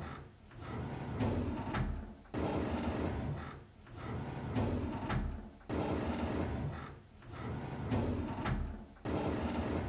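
A drawer sliding open with a rattling scrape, the same sound looped about every three and a half seconds. Each repeat starts with a sudden jump in loudness.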